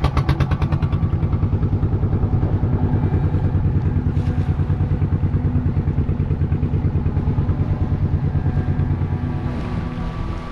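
Small boat's engine running with a steady, rapid chugging beat, easing off and quieter near the end.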